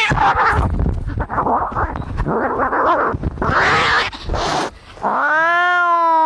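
Domestic cats fighting: about five seconds of harsh, noisy hissing and screeching, then one long drawn-out yowl that sets in near the end and holds steady.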